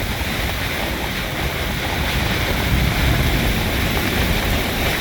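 Squall wind blowing hard, buffeting the microphone with a gusty low rumble over a steady hiss.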